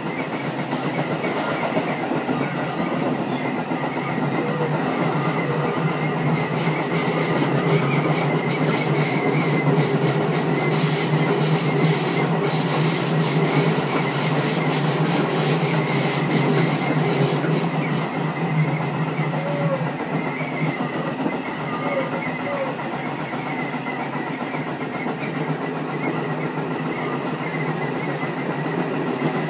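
Running noise inside the leading car of a Tobu 10030-series electric train: a steady rumble that swells through the middle and eases toward the end, with rapid repeated knocks from a flat-spotted wheel.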